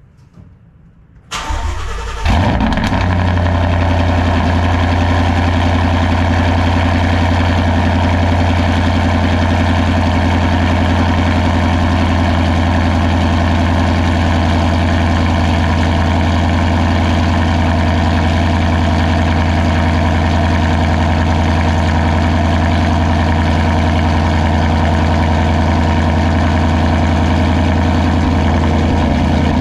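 Ford S550 Mustang's V8 cold-starting about a second in: a short crank that catches, then it settles into a loud, steady idle. The engine is running with its intake runner control valves just deleted.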